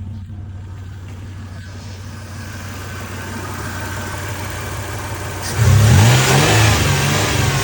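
2003 Toyota Tacoma engine idling steadily. About five and a half seconds in it suddenly gets much louder and fuller, with a rushing hiss over the engine's hum.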